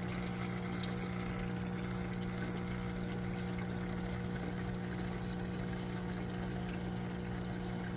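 Aquaponics water pump humming steadily, with water running through the system.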